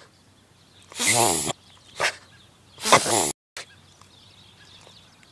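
Puggle puppy reverse sneezing: three forceful, noisy gasps drawn in through the nose, about a second in, two seconds in and three seconds in, the middle one short.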